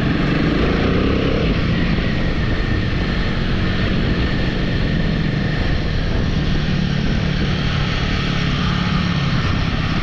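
Royal Enfield motorcycle engine running steadily on the move, under a constant rushing noise.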